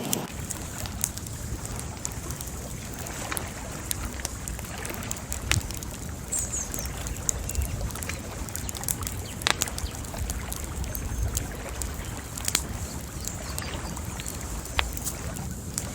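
Bonfire crackling, with irregular sharp pops and snaps over a low steady rumble.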